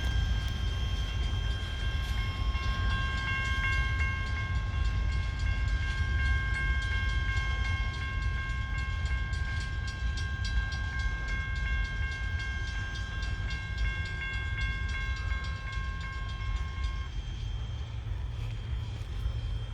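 Great Lakes Central Railroad train rolling past: a steady low rumble from the cars, with rapid clicking from the rails. Over it sits a steady high ringing of several tones, which stops about seventeen seconds in.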